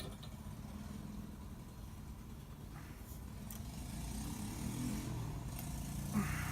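A motor or engine running with a low steady drone that grows a little louder a few seconds in, with a brief hiss near the end.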